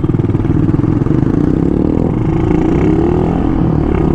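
Small motorcycle engine running as the bike pulls away and speeds up, its pitch rising for a second or so about halfway through.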